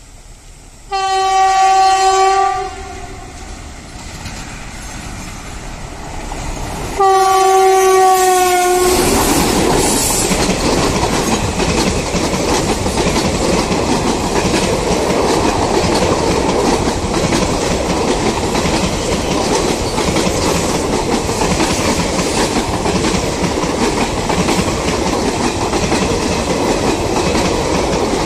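Air horn of a WAP 4 electric locomotive sounding two blasts a few seconds apart, the second dropping slightly in pitch at its end as the locomotive reaches the camera. Then comes a steady loud rumble of the express train's coaches passing at speed, with wheels clacking over the rail joints.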